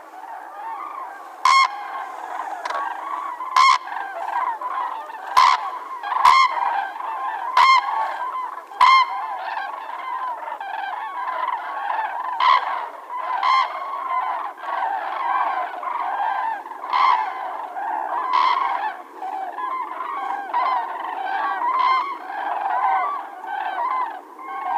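A flock of common cranes calling: many overlapping trumpeting calls throughout, with several louder individual calls standing out above the chorus.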